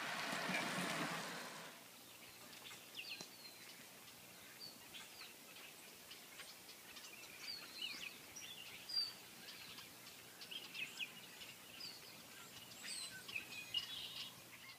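Small birds chirping and calling in short, high notes scattered throughout, over a faint steady outdoor hiss. A brief rushing swell fills the first two seconds.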